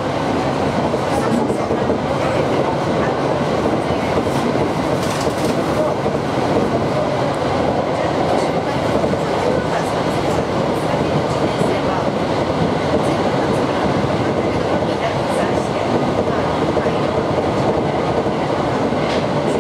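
Running noise of an Aoimori Railway 701-series electric train at speed, heard from inside the passenger car: a steady rumble of wheels on rail.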